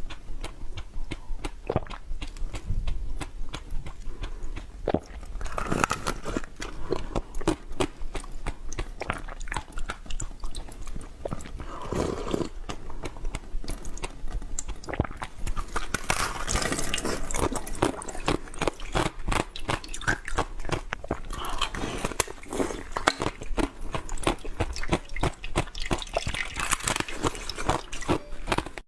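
Close-miked biting and chewing of something hard and crunchy: many irregular crisp crunches and crackles, coming thickest in the second half.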